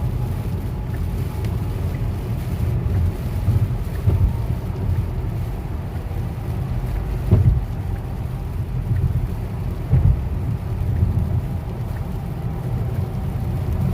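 Low, steady rumble inside a car, with a few dull thumps standing out about 4, 7 and 10 seconds in.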